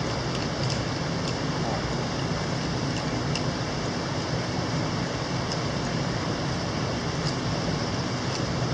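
Steady rushing of a mountain stream, with a few faint, scattered clicks.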